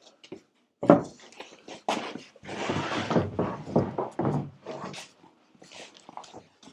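Irregular knocks and clatters of objects being handled, with a longer scraping or rubbing stretch of about a second near the middle.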